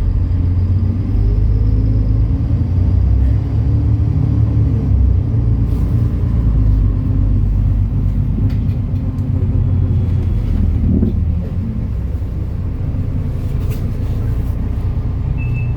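MAN Lion's City NL293 city bus under way, its six-cylinder diesel engine and running gear giving a steady low drone that eases a little about three-quarters of the way through.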